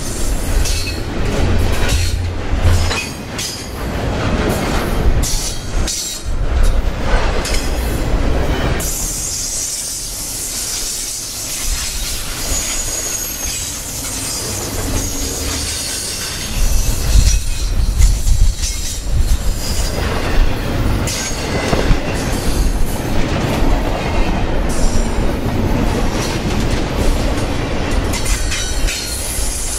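A double-stack intermodal freight train's well cars rolling past close by, steel wheels rumbling and clattering over the rail. A thin high wheel squeal comes and goes, strongest through the middle stretch.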